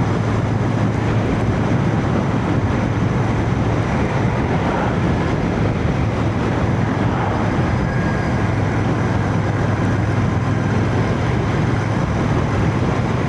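Royal Enfield Shotgun 650's parallel-twin engine running at a steady cruise, mixed with wind and road noise, heard through a microphone inside a full-face helmet.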